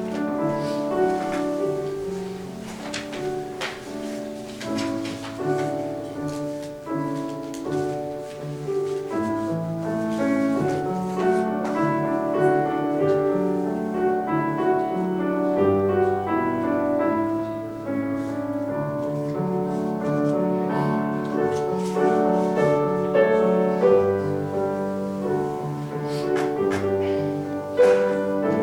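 Instrumental music led by piano, a slow run of held chords and melody notes.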